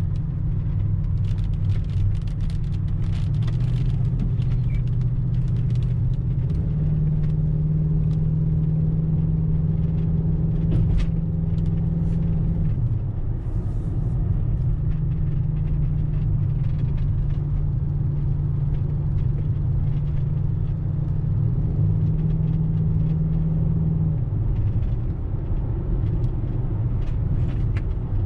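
V8 engine running with a steady low drone. Its pitch steps up a few seconds in and again a little later, holds, drops back about halfway through, climbs again soon after, and falls back near the end.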